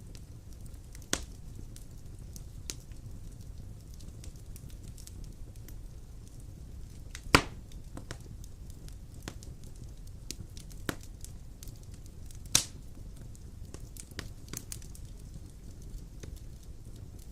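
Large logs burning in a fireplace: a low steady rumble with scattered crackles and sharp pops. The loudest pop comes about seven seconds in.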